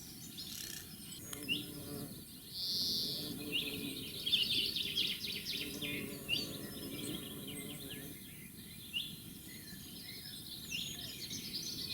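Wild birds singing outdoors: many short, quick chirps and trills, busiest from about three to seven seconds in, over a faint low background noise.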